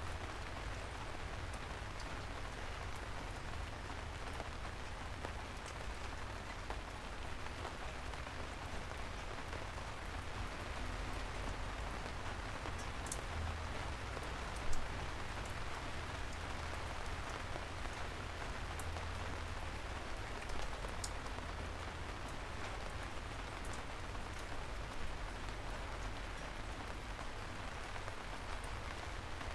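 Steady rain falling, with scattered louder single drops ticking over the even hiss and a low rumble underneath; one sharper drop stands out about halfway through.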